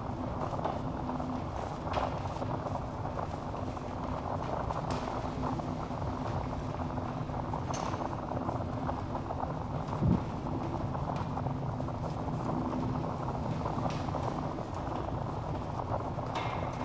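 Wood fire burning in a fireplace: a steady low rush of flame with scattered crackles and pops from the logs, and one louder pop about ten seconds in.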